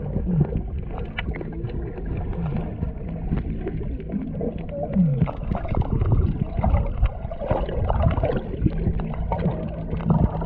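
Muffled water sloshing and gurgling around the microphone, with a steady low rumble and irregular small knocks.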